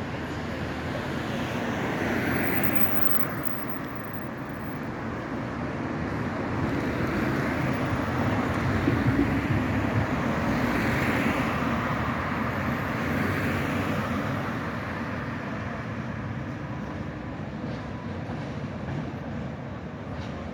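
Tram and road traffic passing on a city street. The noise swells a little about two seconds in, grows loudest around the middle, then slowly fades.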